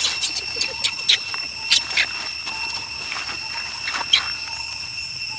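Short, high-pitched squeaks from a baby macaque, several at irregular intervals, over a steady high-pitched whine.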